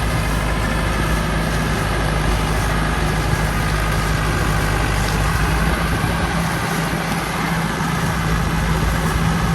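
Tractor diesel engine running steadily, a loud, even low drone.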